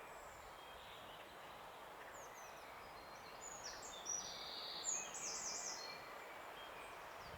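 Small songbirds singing: thin, high falling chirps early on, then a few bright, high-pitched song phrases and trills about four to six seconds in, over a steady outdoor hiss.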